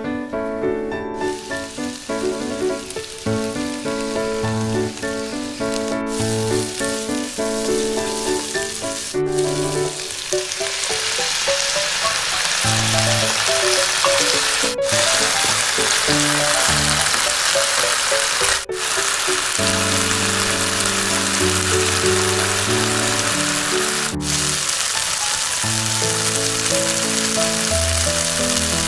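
Mushrooms, bell peppers and onions sizzling as they fry in a pan, the sizzle growing louder after about ten seconds and cutting out for an instant a few times, with background music playing throughout.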